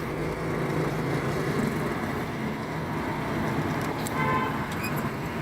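Steady city street traffic noise from passing cars, with a short car horn toot about four seconds in.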